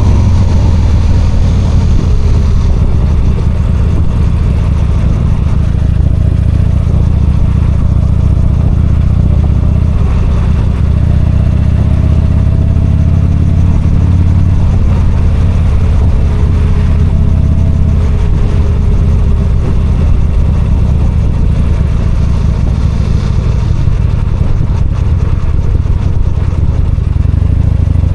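V-twin motorcycle engine running steadily while the bike is ridden, with a faint hiss of wind and tyres over it.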